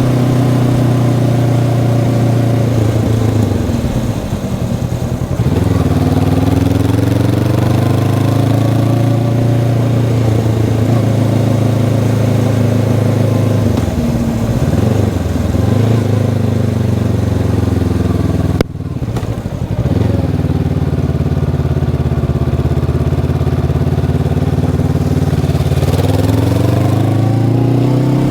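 Honda CB500X's stock parallel-twin engine running under way, holding a steady note with throttle dips and recoveries as the rider shifts. A sharp click comes about two-thirds of the way in, just as the engine note drops and then climbs again, and the revs rise near the end.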